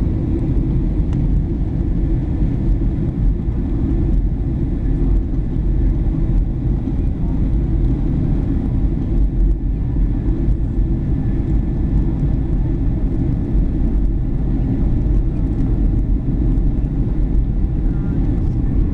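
Steady cabin noise of a Boeing 737-800 airliner in flight: its CFM56 turbofan engines and the airflow give a loud, even rumble, with a few faint steady whining tones above it.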